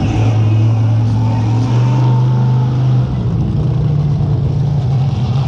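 Monster truck's engine running hard under throttle. Its note steps up about two seconds in, holds for about a second, then drops back.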